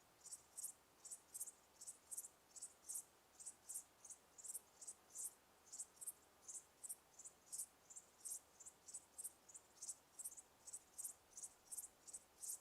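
Insects, likely crickets, chirping faintly: short high chirps, often in pairs, repeating several times a second without a break.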